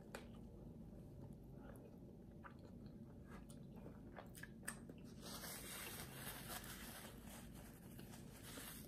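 A person biting into a soft burger and chewing with her mouth closed, picked up faintly by a close microphone as small scattered mouth clicks and soft squishing.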